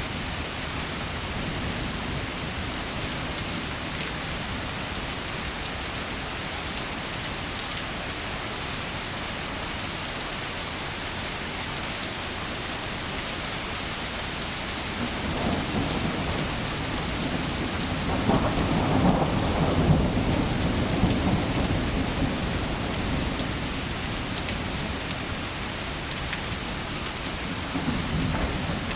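Steady rain with a roll of thunder rumbling in about halfway through, loudest a few seconds later, then fading, and another rumble starting near the end.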